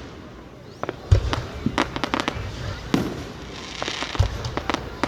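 Fireworks going off: a scatter of sharp cracks, with two deep booms, one about a second in and one about four seconds in, and a spell of crackling just before the second boom.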